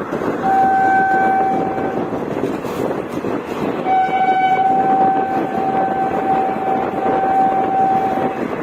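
Indian Railways locomotive horn sounding twice, a short blast and then a long one of about four and a half seconds, over the steady rumble of the moving train.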